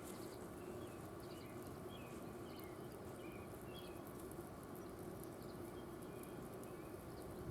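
Faint outdoor ambience: a steady low hum with small birds chirping over and over in the background.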